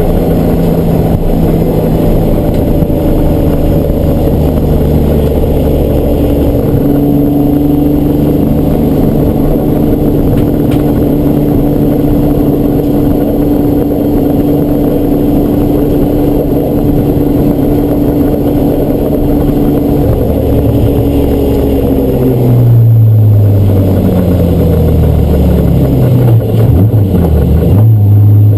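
Race car engine running at steady, high revs for most of the stretch. About 22 seconds in, its pitch falls in several quick steps, as in downshifting under braking, then it settles into a lower, louder note near the end.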